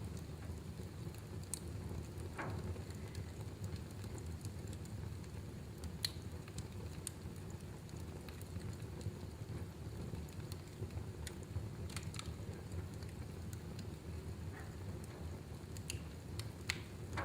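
Wood fire burning in a fireplace: a steady low rumble with scattered sharp crackles and pops, the loudest pop about six seconds in.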